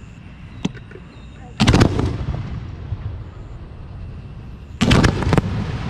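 Aerial fireworks shells going off in two clusters of sharp bangs about three seconds apart, each followed by a rumbling echo.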